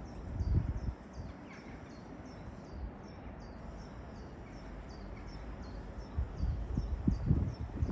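A small bird calling over and over, short high falling chirps about two or three a second, over wind rumbling on the microphone, with stronger gusts near the start and near the end.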